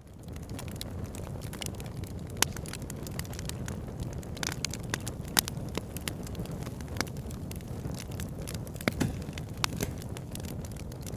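Wood fire burning in a fireplace: a steady low rush of flame with frequent sharp crackles and pops. It fades up from silence at the start.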